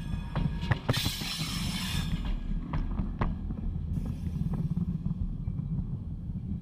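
Freight cars rolling directly over a camera lying between the rails: a loud rush of steel wheels on rail that stops about two seconds in as the last car clears, then a few fading clicks. A low rumble continues underneath.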